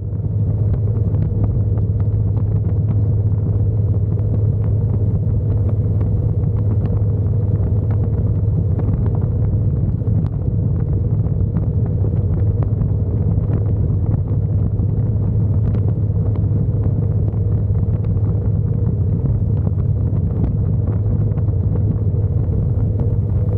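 Motorcycle riding at a steady speed, its engine and the passing air making a constant low rumble with no change in revs.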